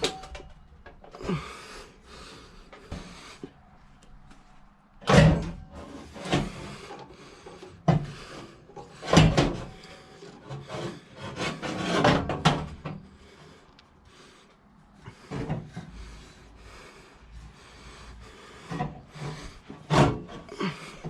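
Irregular scrapes and knocks of a car's exhaust being worked loose underneath the car, in uneven bursts with the loudest clatters about five, nine and twelve seconds in.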